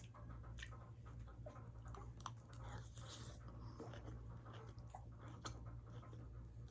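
A person chewing food close to the microphone: faint, scattered small clicks over a steady low hum.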